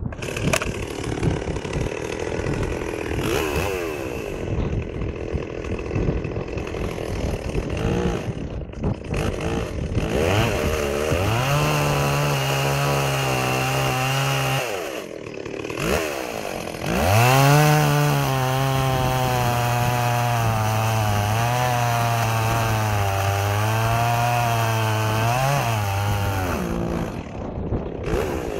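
Stihl 038 Magnum two-stroke chainsaw idling, then opened up to full throttle twice: first for about three seconds, then for about nine seconds with the pitch dipping slightly, as when the chain is under load in a cut. It drops back to idle between the runs and near the end.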